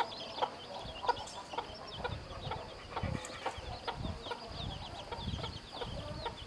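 Chicks peeping in a steady stream of short, high, falling chirps, several a second, with a hen clucking lower underneath and scattered light taps.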